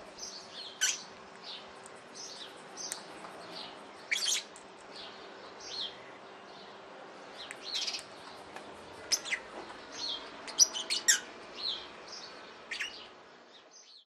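Birds chirping: short, high calls scattered throughout, coming more often and louder in the second half.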